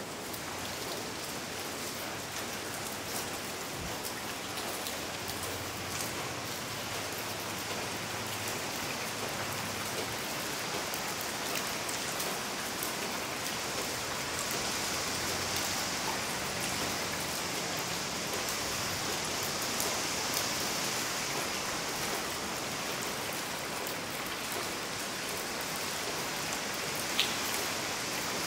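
Steady tropical-storm rain falling on a large glass dome roof over an indoor pool, with a few scattered single drips; it grows a little louder in the middle.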